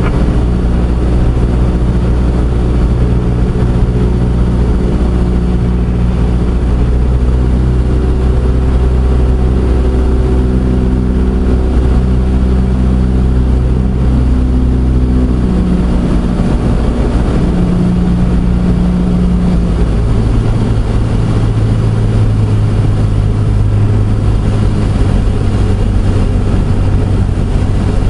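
Single-engine Cessna 172SP's four-cylinder Lycoming engine and propeller running steadily, a loud, even drone heard from on board. The engine tone shifts about two-thirds of the way through, then settles again.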